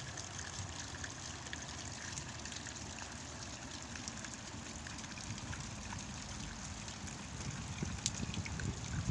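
Light rain falling, a steady patter with many separate drop ticks. A low rumble starts to rise near the end.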